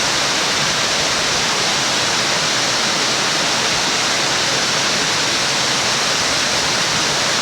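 Waterfall water rushing steadily, loud and unbroken.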